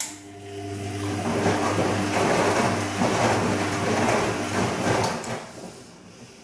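Bosch Serie 2 washing machine tumbling its drum on the gentle silk wash. The motor starts with a click and a hum, and the laundry and water swish for about five seconds as the sound builds. Then the drum stops and the sound dies away.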